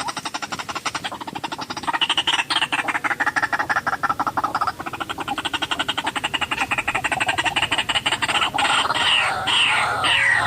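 White-breasted waterhen calling: a fast, frog-like croaking chatter. About eight seconds in it breaks into louder repeated falling notes, about two a second.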